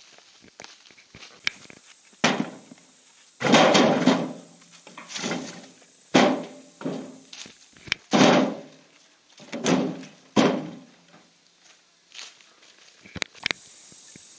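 A string of about ten heavy thumps, each trailing off in a short rustling crash, coming irregularly about once a second.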